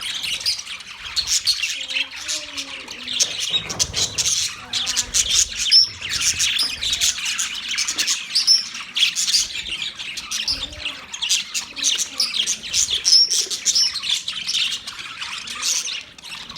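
Budgerigars chirping and chattering continuously, many short overlapping chirps and warbles.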